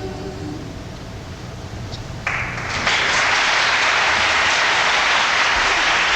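The last sung chord of the choir dies away, then audience applause breaks out about two seconds in, swelling within a second to steady, full clapping.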